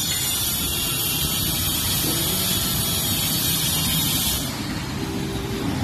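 Road traffic: a steady low vehicle rumble with a loud hiss over it. The hiss stops about four and a half seconds in.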